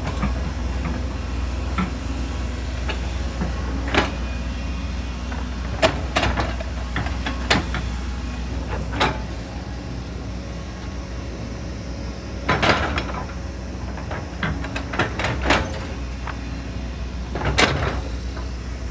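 Excavator's diesel engine running steadily under load, with irregular clanks and scraping knocks from the machine working earth and rock, a cluster of them about two-thirds of the way through.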